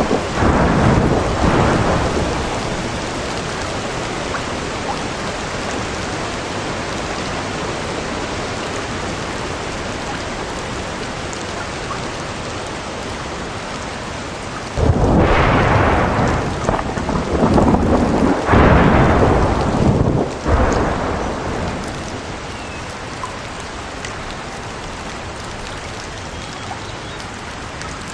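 Steady rain with thunder. A roll of thunder dies away in the first couple of seconds, and a loud clap breaks in suddenly about halfway through, rumbling on in waves for around six seconds before the rain is left alone again.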